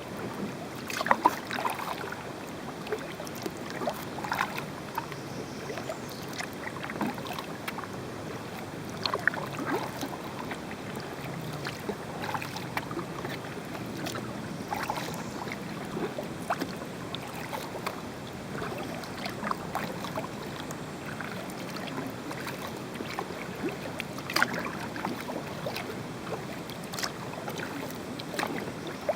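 Kayak paddle dipping into creek water stroke after stroke, with short irregular splashes and drips every second or two over a steady background hiss.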